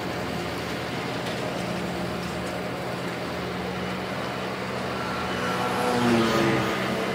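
Diesel engine of heavy earth-moving machinery running steadily, with a brief louder swell about six seconds in.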